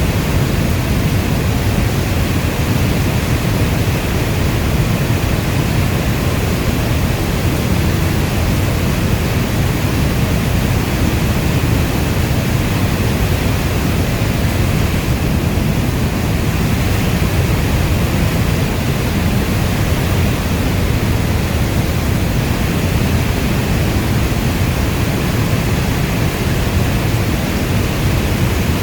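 Steady heavy rain, a dense, even rush of noise weighted toward the low end, with no single drops or other events standing out.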